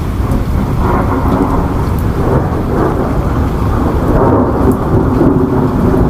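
Steady heavy rain with a deep low rumble underneath, swelling slightly in loudness.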